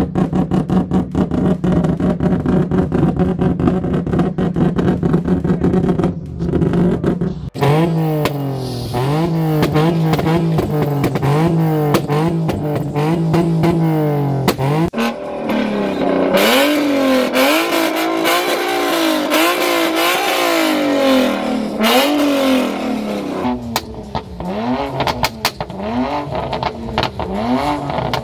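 Car engines held on two-step launch-control rev limiters, the exhaust popping and crackling rapidly at a steady pitch for the first several seconds. After that the revs rise and fall in quick repeated waves as the throttle is worked against the limiter.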